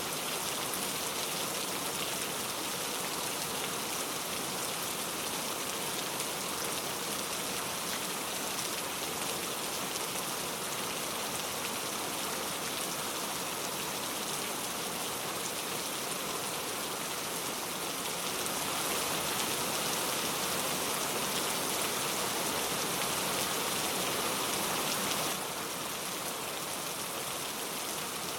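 Heavy rain falling steadily, with no thunder. It gets slightly louder about two-thirds of the way through, then drops back suddenly near the end.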